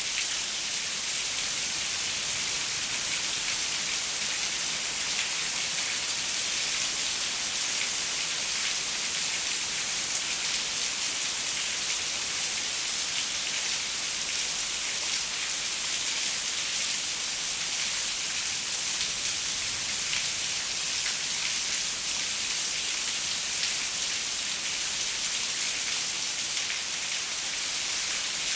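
Steady rain falling on a window: an even hiss, strongest in the high range, with many fine drop ticks and no change in strength.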